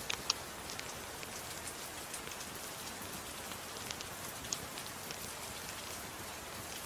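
Steady gentle rain, an even hiss with scattered sharp drop ticks; two of the loudest ticks come just after the start.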